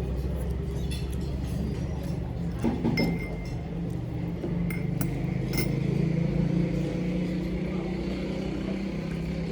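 Tableware clinking a few times, with short ringing clinks about three seconds in and again around five to six seconds, over a steady low hum.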